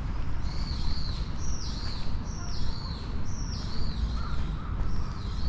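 A bird calling over and over, a shrill swooping note about once a second, each one dipping in pitch and rising again, over a steady low rumble.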